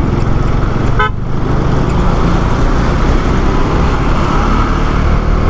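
Bajaj Dominar 250 motorcycle running at highway speed, a steady engine-and-road rumble with wind noise. A short horn toot sounds about a second in.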